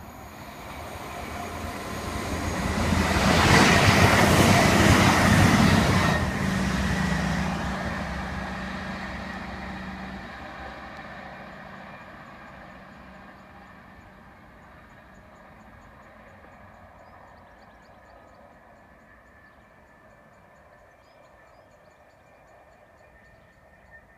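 CrossCountry diesel passenger train passing at speed: its rush swells to a loud peak about four seconds in, with a steady engine hum, then fades slowly as the train runs away up the line.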